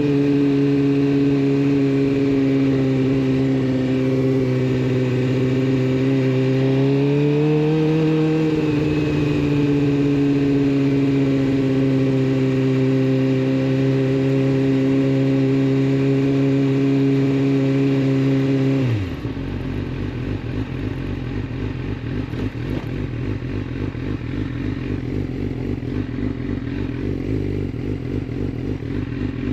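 Suzuki GSX-R 600 inline-four through a full de-catted Yoshimura exhaust, running at steady raised revs that lift briefly about 8 seconds in. About 19 seconds in the revs drop suddenly and it settles into a lumpy, pulsing idle.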